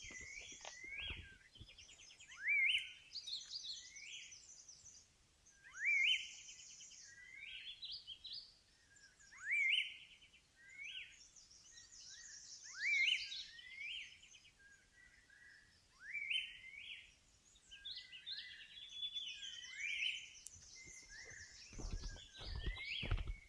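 Forest birdsong from several birds. One bird repeats a sharply rising whistled note about every three and a half seconds, over higher, faster twittering from others. A few low thuds come near the end.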